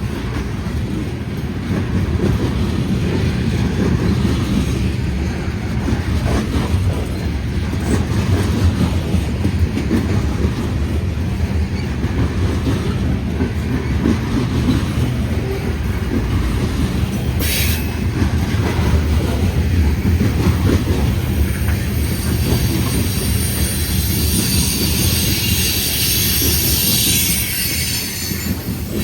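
Freight train cars rolling past at close range with a steady low rumble of wheels on rail. There is a brief sharp high sound a little past halfway, and a high-pitched wheel squeal from about three-quarters of the way through that fades near the end.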